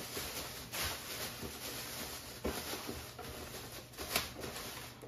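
Soft handling noises from food ingredients being picked up and shown: faint rustling with three light knocks spaced about a second and a half apart.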